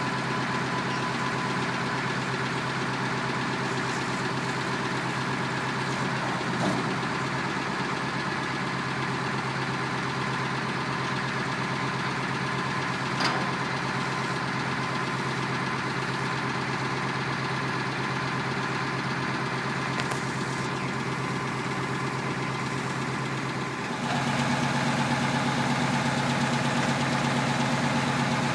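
Truck engine idling steadily, with a few faint clicks; about 24 seconds in it gets louder and its tone changes and then holds steady.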